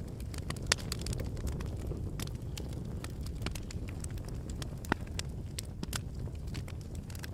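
Fire crackling in a fireplace: a steady low rumble of flames with frequent sharp pops and snaps, two louder pops about a second in and near five seconds.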